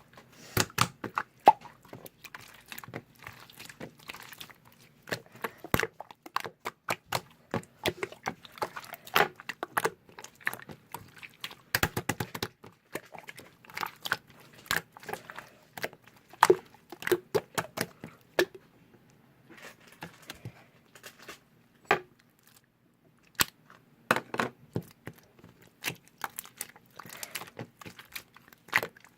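Close-up handling noises: rapid, irregular crinkling, rustling and light taps, with a short lull about two-thirds of the way through.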